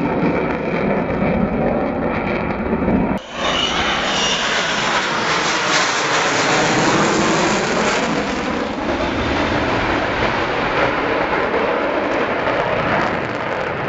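Avro Vulcan XH558's four Rolls-Royce Olympus turbojets running, heard as loud, steady jet noise. About three seconds in, the sound drops out for a moment and comes back fuller and brighter.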